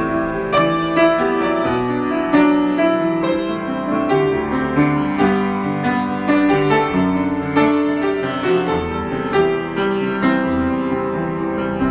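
Solo piano improvisation: a steady stream of struck notes and chords at a moderate pace, with no voice.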